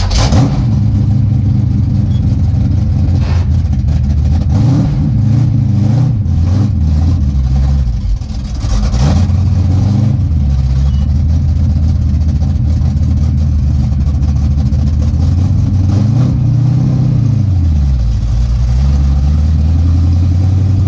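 Pure stock dirt-track race car's V8 engine idling with light throttle blips, then revved up once and let fall back to idle near the end. A few sharp knocks and clicks sound over it in the first half.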